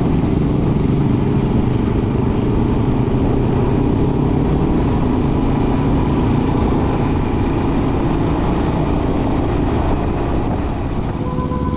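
Royal Enfield Himalayan motorcycle engine running steadily under way, with a continuous low drone and no change in pace.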